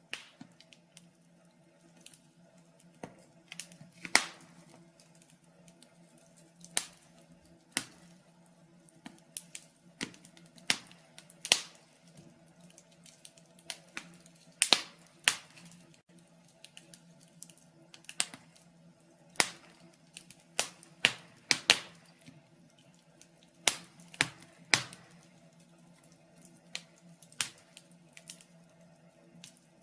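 Wood fire in a fireplace crackling: irregular sharp pops and snaps, some much louder than others, over a faint steady hum.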